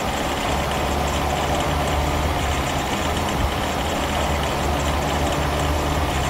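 Car engine running steadily with a sharp metallic sound, given as the sign of engine detonation (knock), which may be caused by low-octane fuel.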